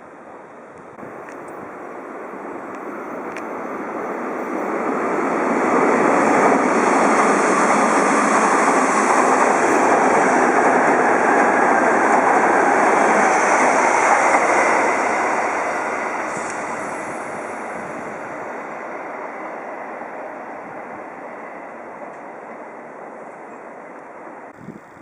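Odakyu Line electric train passing on the track. Its running noise builds over about five seconds, stays loud for about ten, then fades away.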